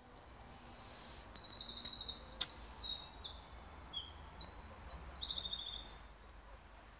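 A songbird singing: one long, loud run of quick, varied chirps and rapid trills that ends about six seconds in.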